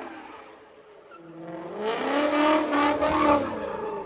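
Ford Mustang accelerating hard and sliding into a turn, its engine revving up, holding high and easing off as it draws away.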